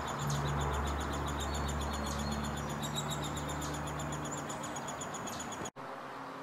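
Bird chirping in a fast run of short, high, repeated notes, several a second, over a steady low hum. It breaks off abruptly near the end.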